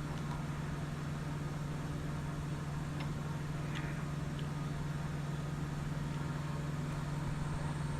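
Steady low mechanical hum in a workshop, with a few faint light clicks a few seconds in from small pump parts being handled.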